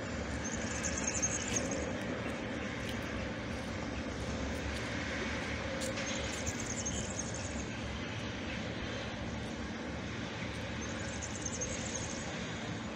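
A train running on the rails: a steady rumble and noise, with a brief high rasp three times, about five seconds apart.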